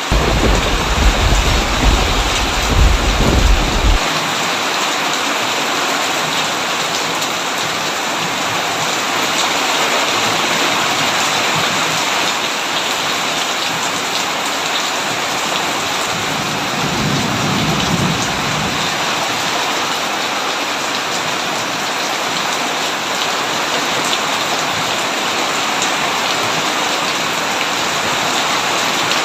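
Heavy rain falling steadily on a tin roof. A low thunder rumble runs through the first four seconds and cuts off abruptly, and a fainter, shorter rumble comes about seventeen seconds in.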